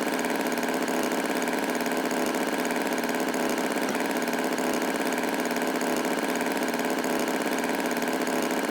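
Tractor engine idling steadily, an even running sound with no change in speed.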